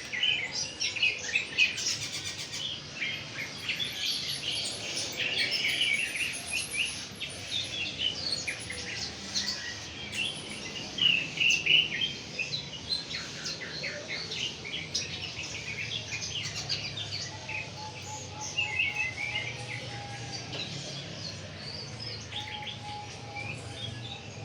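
Small songbirds chirping and twittering in many short, overlapping calls, with a faint low hum underneath.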